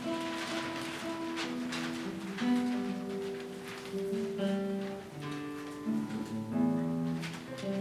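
A guitar ensemble playing together, several plucked guitar parts sounding held, overlapping notes in a slow-moving melody with chords.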